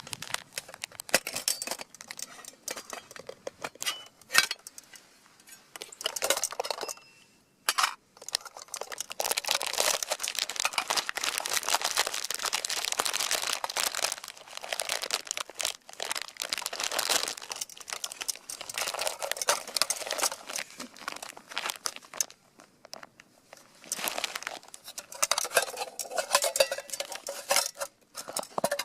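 Dense crinkling and rustling from something being handled, in long runs broken by two short pauses, the first about seven seconds in.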